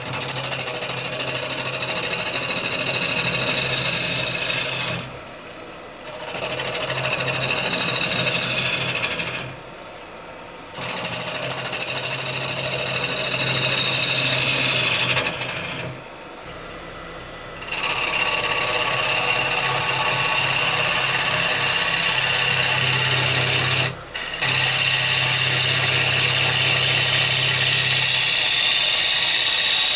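Bowl gouge cutting a rowan-wood bowl on a running wood lathe: a loud scraping hiss over a steady hum. It comes in passes of a few seconds, and its pitch falls during each pass. The cutting stops briefly four times between passes.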